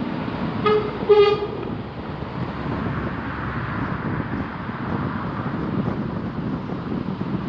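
A vehicle horn gives two toots, a quick one and then a slightly longer one, over the steady road and engine noise of a car driving.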